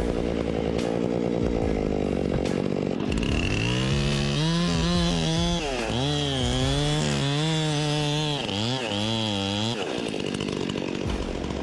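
Chainsaw engine running, its pitch dipping and rising again and again as it is throttled up and down from about three seconds in, then dropping back near the end.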